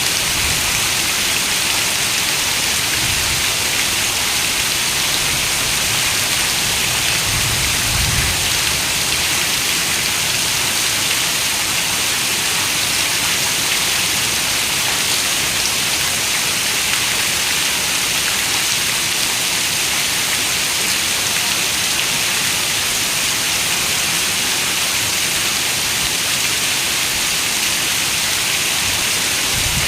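Steady rain falling on a window, an even, unbroken hiss of drops with no change in strength.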